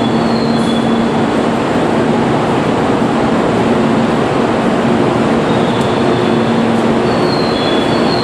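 Steady running noise of a Shinkansen train standing at a station platform: an even rumble with a low hum and a few faint, high whistling tones.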